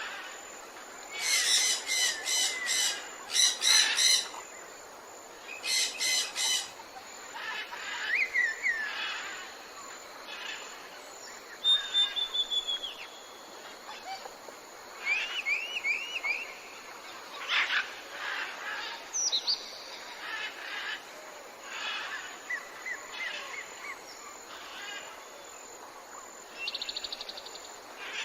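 Several songbirds singing and calling over a steady background hiss. Loud bursts of rapidly repeated notes come in the first few seconds, then a falling trill, a run of rising chirps and a fast buzzy trill near the end.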